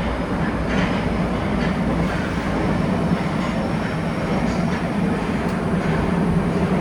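Nagoya Municipal Subway 2000-series train running at a steady pace: an even rumble of wheels on rail, with faint thin high tones above it.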